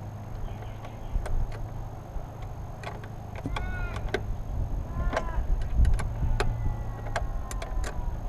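Scattered clicks and metallic knocks of hand tools working on car battery terminals and leads, over a steady low hum.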